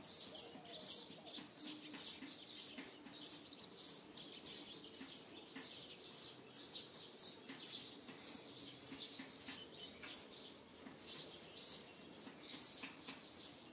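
Birds chirping: a dense, unbroken run of short, high chirps.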